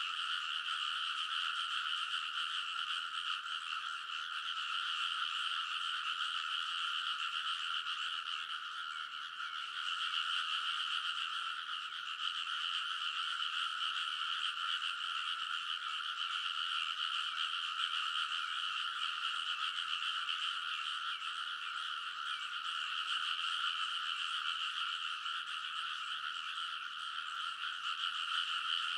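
A dense chorus of many frogs calling at once in a rice paddy, blending into one steady, unbroken mass of high calls.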